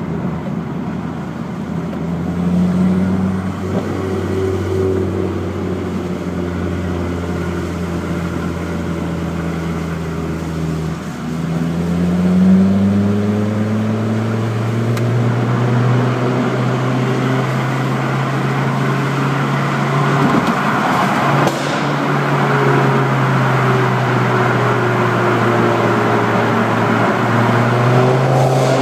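Ford Focus RS engine and exhaust under acceleration in a tunnel. The revs climb about two seconds in and again around twelve seconds, then hold steady, with a few sharp exhaust pops from a tune set up for pops and bangs.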